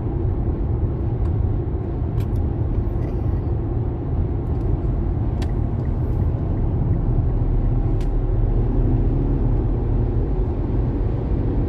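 Steady road and tyre noise with engine hum inside a car cabin at highway speed, around 110 to 120 km/h: a constant low rumble, with a few faint clicks.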